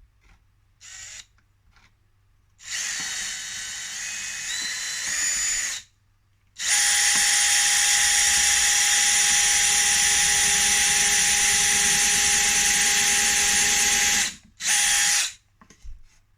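Electric drill pre-drilling pilot holes in the corner of a beehive box for nails: a brief blip, a run of about three seconds whose pitch steps up as the speed rises, then a long steady run of about eight seconds and a short final burst.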